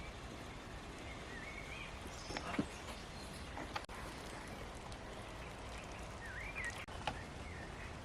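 Birds singing in short warbling phrases over steady outdoor background noise, with a few sharp clicks or knocks, the loudest about two and a half seconds in.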